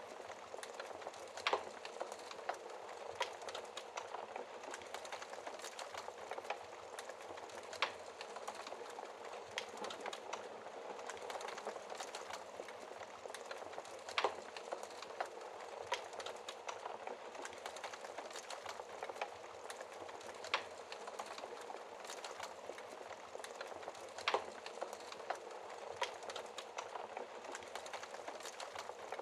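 Wood fire burning in a fireplace: a steady soft hiss with sharp crackles and pops every second or few.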